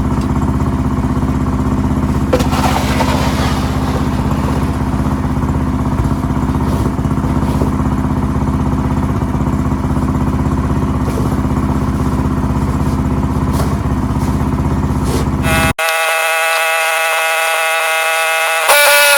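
Ariens 624E snowblower's engine running steadily under load. Near the end it cuts off abruptly, and a steady whine of several high tones takes over and grows louder.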